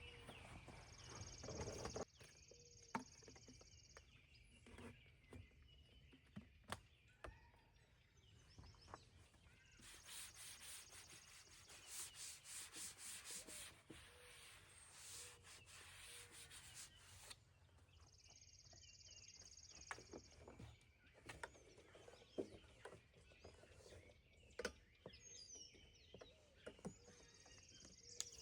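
Faint outdoor ambience: high buzzing calls in short bursts that repeat every several seconds, and a longer pulsing buzz in the middle, with scattered small clicks and rustles.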